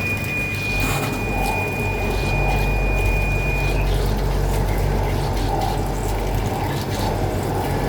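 Die-sinking EDM machine sparking in its dielectric fluid while cutting a plastic toy tire mold: a steady liquid-like crackling over a low electrical hum. A thin high whine runs alongside and stops a little before halfway through.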